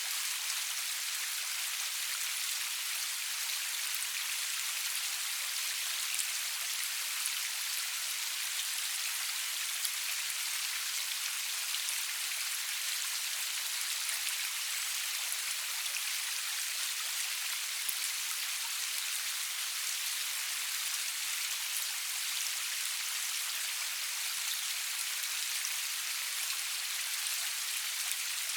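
Steady rain falling, an even hiss with the faint ticks of individual drops, and no thunder.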